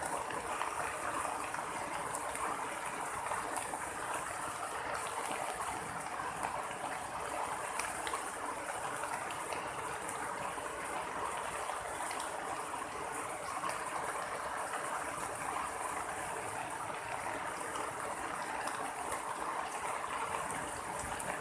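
Steady rain falling: an even, unbroken hiss and splatter of water that holds at the same level throughout.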